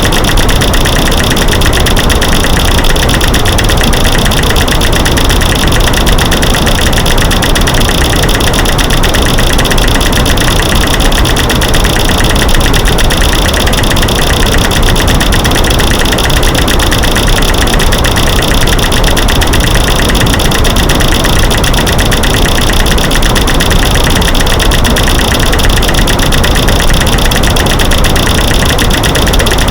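Dense, rapid, unbroken clicking and cracking from a mix of light switches being flicked, sticks breaking and rocks knocking together, layered over a steady white-noise hiss. It is a loud, even sound-masking track.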